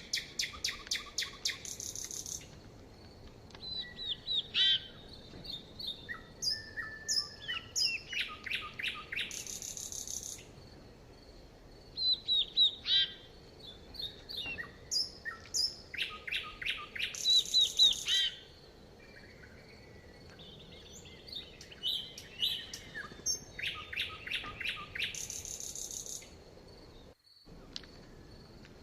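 Songbirds chirping and singing: fast trilled runs of high, sharp notes a second or two long, repeating every few seconds, with scattered single chirps between them and a faint steady high tone underneath.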